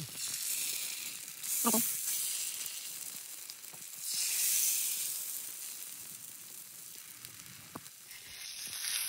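Rice-flour roti batter sizzling in a hot pan, a steady hiss that swells twice, about a second and a half in and again about four seconds in. A couple of faint taps sound over it.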